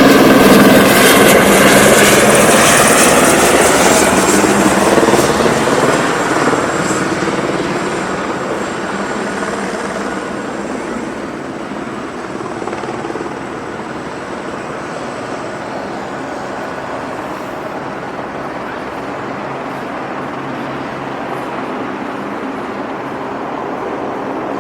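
Helicopter passing overhead: loud at first, its pitch falling as it goes by, then fading to a steadier distant sound.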